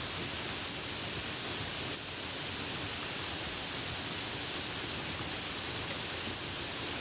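Steady rain falling, an even hiss with no breaks or thunderclaps.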